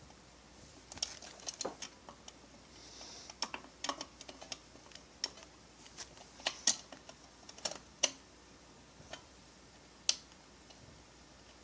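Irregular light clicks and taps of small parts and tools being handled on a workbench while a chainsaw kit is assembled, with a short soft hiss about three seconds in.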